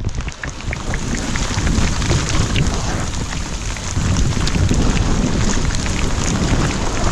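Rain falling steadily, with many separate drops striking close by, over a low rumble.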